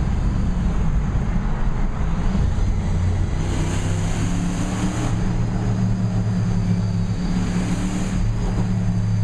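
Ford F-150 pickup's glass-pack exhaust droning steadily as the truck drives along, with two brief rushes of hiss, one in the middle and one near the end.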